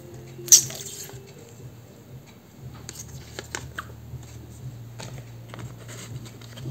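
Paper being handled and wrapped: a sharp rustle of book page about half a second in, followed by light scattered paper rustles and taps.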